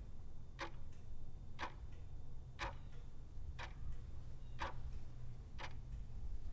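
Clock ticking once a second, each tick a sharp click, over a steady low hum.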